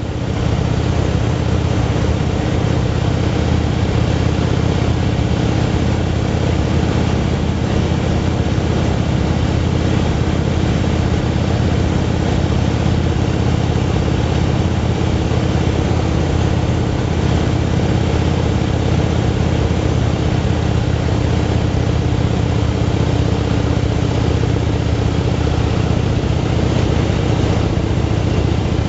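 Motorcycle engine running steadily at an even cruising speed, with no change in pitch or level.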